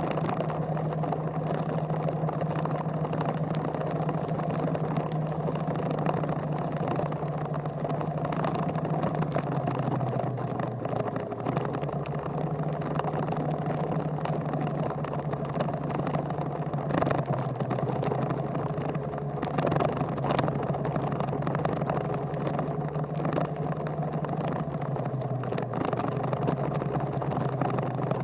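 A vehicle engine running with a steady low hum, its pitch stepping down and back up a few times, with scattered light clicks.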